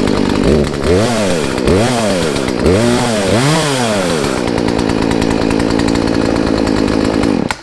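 Poulan two-stroke chainsaw, freshly fitted with a rebuilt Zama carburetor, running after a restart. It is revved up and back down four times, then settles to a steady idle before cutting off suddenly near the end.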